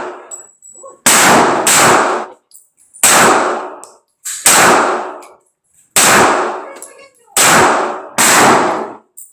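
Seven handgun shots fired at an uneven pace, roughly one to one and a half seconds apart, each bang ringing on briefly after it.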